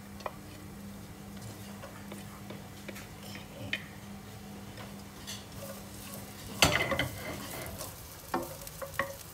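Minced ginger sizzling lightly in hot oil in a nonstick pan, with scattered small crackles. About two-thirds of the way in, a wooden spatula starts stirring it around the pan, and its scraping and clicks are the loudest sound.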